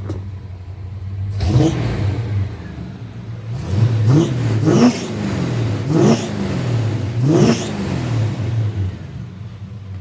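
1957 Chevrolet's fuel-injected 327 V8 idling, then revved in about five quick blips, each rising and falling in pitch, before settling back to a steady idle near the end.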